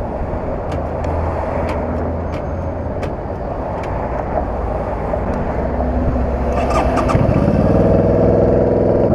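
Motorcycle engine running at a steady idle, with scattered light clicks. About seven and a half seconds in, a stronger, higher engine note comes in and holds steady.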